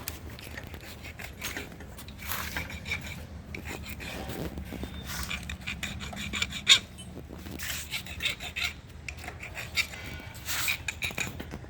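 Irregular scraping and rubbing with a few sharp knocks over a low steady hum: workshop handling noise.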